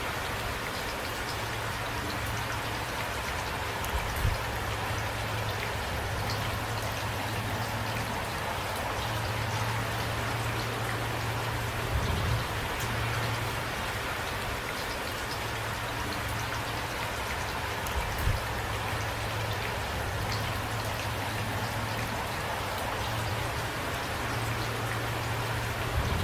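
Steady rain falling, a dense even patter of drops, with a few brief low thumps about 4, 12 and 18 seconds in.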